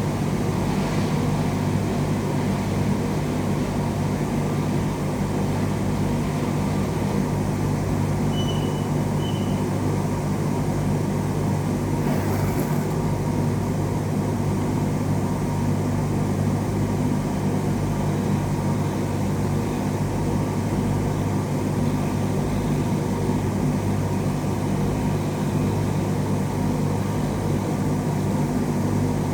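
Steady low machine hum with a droning tone, unchanging throughout; two faint short high beeps about eight seconds in.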